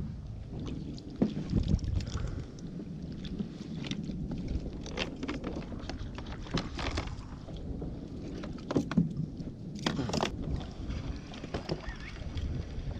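Kayak out on the sea with wind rumbling on the microphone and water slapping the hull. Irregular knocks and splashes sound throughout, two of the sharpest about a second and a half in and near ten seconds.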